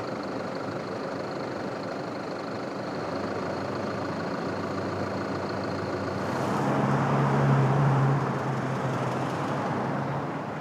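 A motor vehicle's engine running over steady traffic noise. It grows louder about six seconds in, peaks a couple of seconds later, then eases off near the end.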